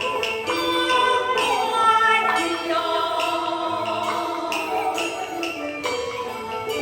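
Beiguan opera music in the Fulu style: a pitched melody line, sung or played, over the ensemble's percussion, with sharp strokes about once a second.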